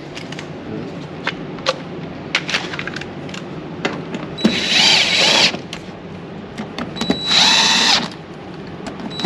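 A power drill run in two short bursts of about a second each, its motor whining with a wavering pitch, near the middle and again toward the end; light clicks and rattles of handling between the runs.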